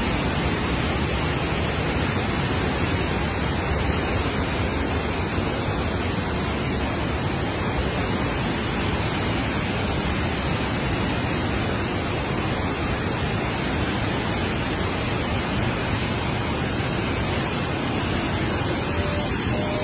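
Steady, loud rush of swollen floodwater pouring over and through a dam.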